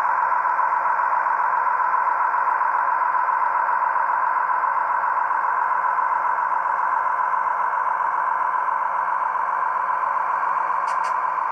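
Tsunami 2 sound decoder in an Athearn Genesis HO scale gas turbine locomotive playing a steady gas-turbine whine and rush through the model's small onboard speaker during a run-by. Two faint ticks come near the end.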